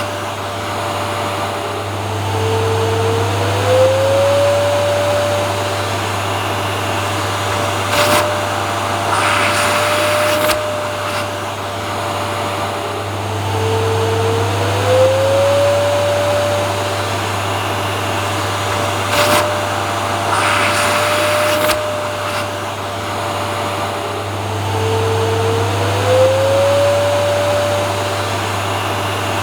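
Vacuum cleaner running steadily with a motor whine over a low hum. Every eleven seconds or so the whine drops in pitch and glides back up, with brief hissing surges between the dips.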